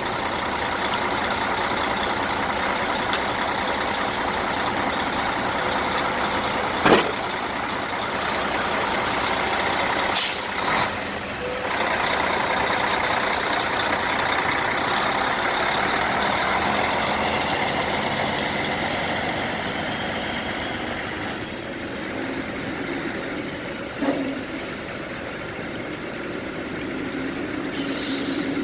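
Truck engine running steadily, with a few short sharp knocks over it; the sound eases a little in the later part.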